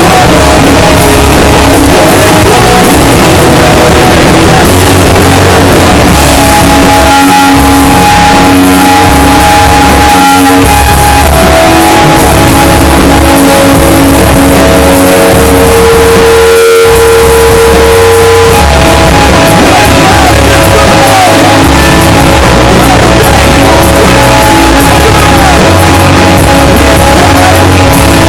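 Rock band playing loudly, with electric guitar holding long notes. The recording is overloaded, pinned at full level and harsh.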